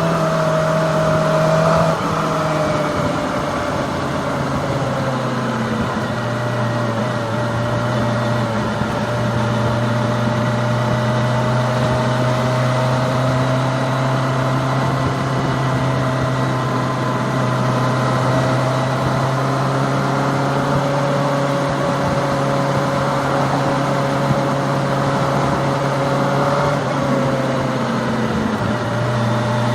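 Kawasaki ZX-25R's 250cc inline-four engine running at a steady cruise, with wind and road noise. The engine note drops about two seconds in and settles lower a few seconds later. Near the end it dips briefly and then picks up again.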